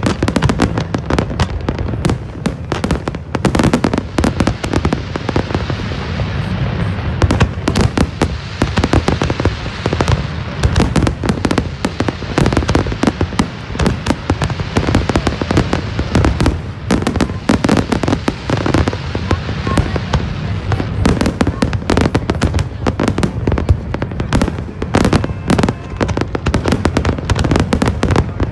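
Fireworks display: a dense, unbroken barrage of shell bursts and crackling, many bangs a second with no pause.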